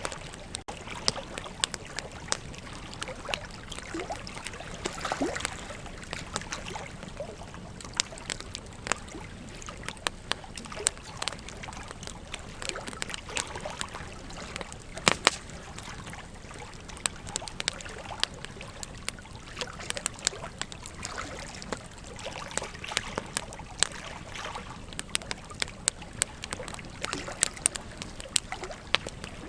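Burning wood in a campfire crackling and popping with irregular sharp snaps, one louder pop about halfway through, over a steady rush of flowing river water.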